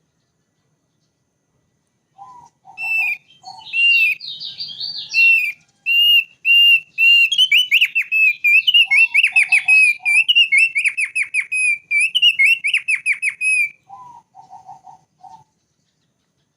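Thick-billed white-eye (opior paruh tebal) singing a long run of quick, varied whistled notes for about ten seconds. Short groups of lower notes come just before the song, in the middle of it and just after it. The song starts about two seconds in and stops a couple of seconds before the end.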